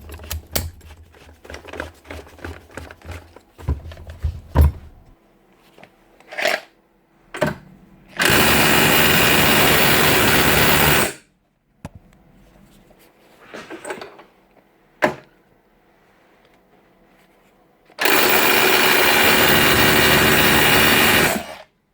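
DeWalt DCH273 cordless SDS drill run twice, for about three seconds each time, after a few handling clicks and knocks: a test run of the freshly repaired and regreased drill.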